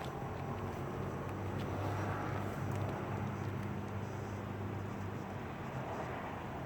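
A motor vehicle engine running steadily, with a low hum that is strongest through the middle and eases off after about five seconds.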